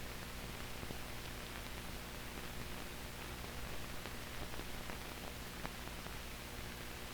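Steady hiss and low hum with a few faint clicks, the noise of a blank soundtrack on old newsreel footage.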